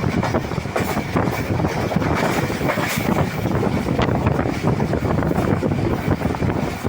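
A fast-moving train running with a steady, loud rumble, with a few faint clicks among the noise.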